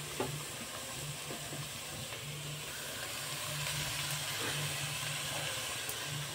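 Grated carrots cooking in ghee in an open pressure cooker over a gas flame: a steady hiss and sizzle as the carrots' water cooks off.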